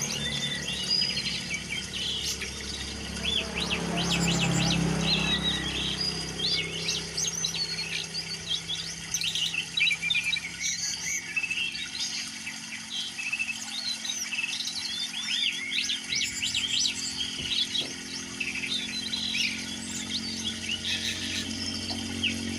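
Songbirds singing: a steady run of short, quick high chirps and trills, with a low rumble in the first few seconds.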